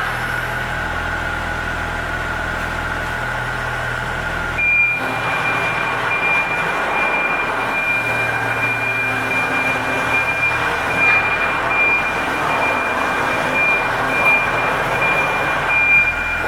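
2016 IHI 25V-4 mini excavator's diesel engine running steadily. About four and a half seconds in, a steady high-pitched tone starts and continues alongside the engine.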